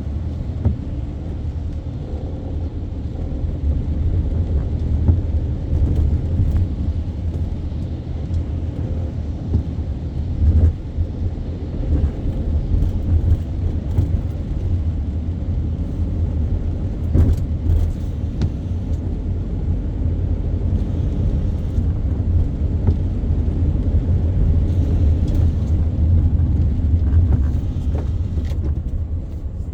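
Low, steady rumble of a car being driven, with a few light knocks along the way. The rumble eases off near the end.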